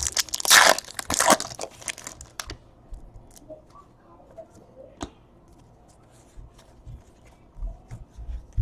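Trading-card pack's foil wrapper being torn open and crinkled for about two and a half seconds, then faint light clicks of handling with one sharper click about halfway through.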